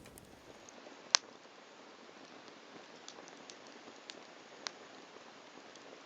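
Wood fire burning on bare ground, crackling: a steady soft hiss with scattered sharp pops, one loud pop about a second in and a few smaller ones between about three and five seconds.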